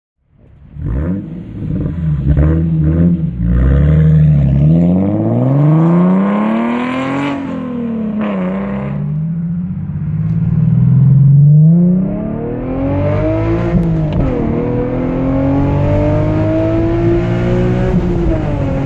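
Infiniti G37 Coupe's 3.7-litre V6 through a non-resonated Topspeed axle-back exhaust: a few short revs, then hard acceleration with the pitch rising through the gears and dropping at each upshift, about seven and twelve seconds in. After that it settles into a steadier pull with the note slowly climbing.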